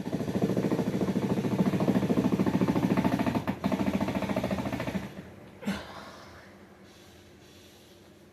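Small power drill driving a screw, running with a rapid pulsing chatter for about five seconds with a brief break partway through, then a single click.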